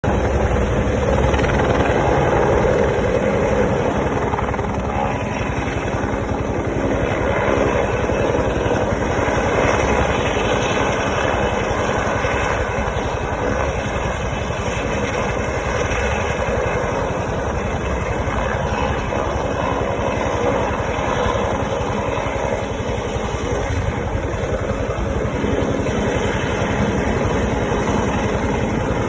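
Helicopter's rotor and turbine running steadily while it hovers to take up water for firefighting.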